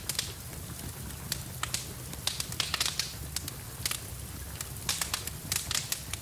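Wood fire crackling in a fireplace: irregular sharp pops and snaps, several a second, over a steady hiss and low rumble of rain.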